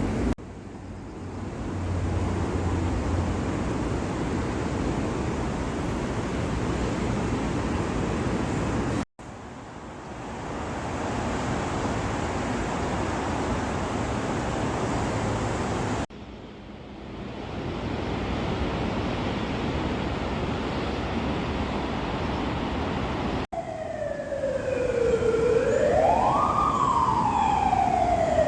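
Steady rushing noise of heavy rain and outdoor ambience across several abruptly cut clips; in the last five seconds an emergency-vehicle siren wails loudly, falling, then rising and falling again.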